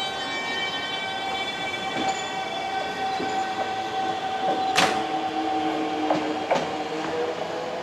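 Electric commuter train moving at a station: a steady whine of several held tones, with a few sharp clicks about five and six and a half seconds in.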